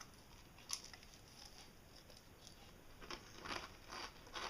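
Faint crunching of a mouthful of crunchy cereal being chewed: a single click under a second in, then several soft crunches from about three seconds in.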